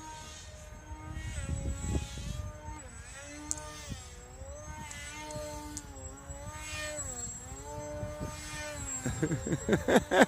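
Motor and propeller of a small radio-controlled paper aeroplane running through a loop, its whine rising and falling in pitch as it climbs, turns over and passes. Wind rumbles on the microphone underneath, with a louder burst of noise near the end.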